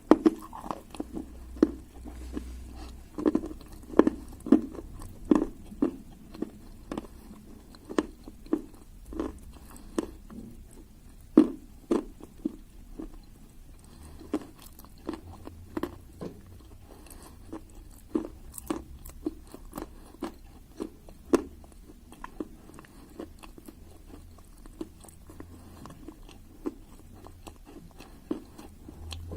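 Close-up crunching and chewing of clay: short, sharp bites and crunches about every half second to a second, with soft chewing in between.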